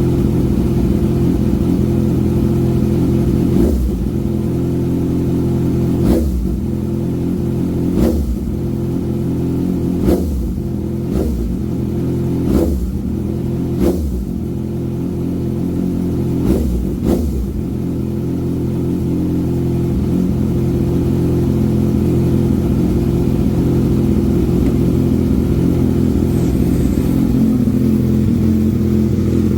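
Kawasaki ZX-6R 636 inline-four running through an M4 GP19 cone-type (megaphone) exhaust with no silencer: idling, then a quick series of short throttle blips between about 4 and 17 seconds in, then settling back to a steady idle. The exhaust note is full, with no crackling.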